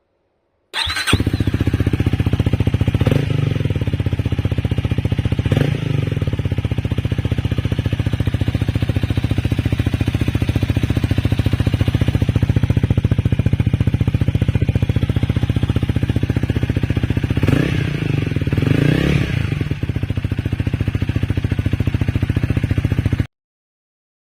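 Honda Rebel 250's single-cylinder engine breathing through an aftermarket BEAMS muffler: it starts up about a second in and idles with a steady thumping exhaust pulse. Short throttle blips come twice early on, then a pair of revs later. The engine is then switched off and cuts out suddenly.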